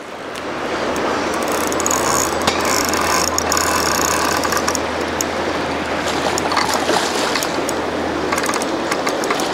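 Fishing reel clicking and buzzing steadily as a foul-hooked fish is fought on the line.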